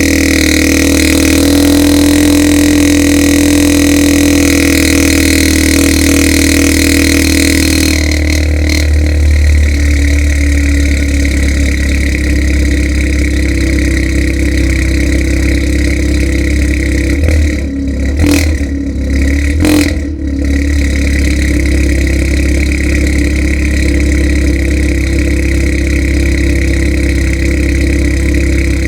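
Seat Leon Mk3 1.5 TSI four-cylinder turbo petrol engine idling after a cold start through an exhaust with a downpipe, straight-through intermediate pipe and road-legal final silencer. The steady idle note changes about eight seconds in, likely the cold-start fast idle settling, and a few short dips come a little past halfway.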